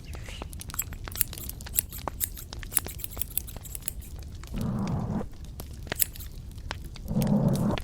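Close-miked crisp crackling and clicking, with two short, louder muffled rubbing sounds about five and seven seconds in.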